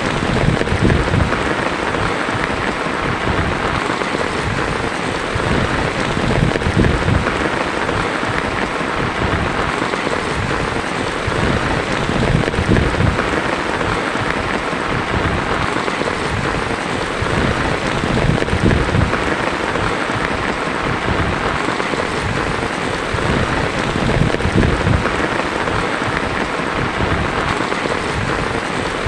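Heavy rain falling steadily on a tin roof: a dense, even patter.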